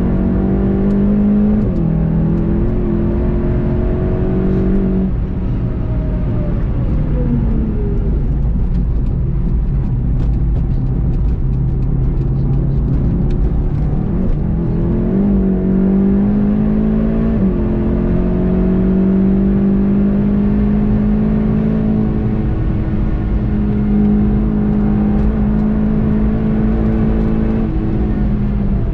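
VW Golf 7 GTI TCR's turbocharged four-cylinder engine under hard acceleration, rising in pitch with sudden drops at each upshift. About a third of the way in it eases off and falls in pitch as the car brakes, runs low for a few seconds, then pulls hard again through further upshifts, over steady road and wind noise.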